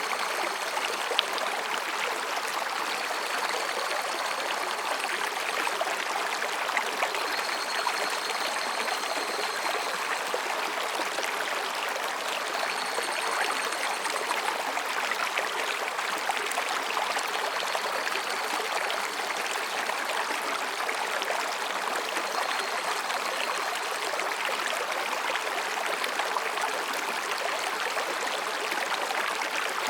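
Mountain stream babbling steadily over rocks. Faint, distant higurashi (evening cicada) calls rise above it in short high-pitched phrases every few seconds.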